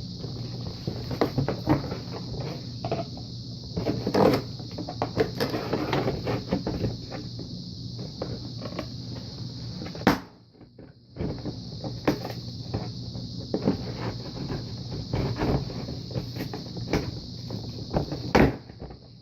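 Cardboard box being handled and cut open: irregular knocks, scrapes and thumps over a steady hiss, with a short break about halfway through.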